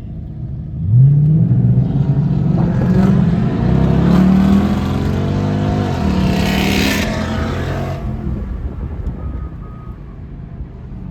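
Car engine revving, its pitch climbing and falling several times, with a brief hissing burst a little past the middle before the revs die away.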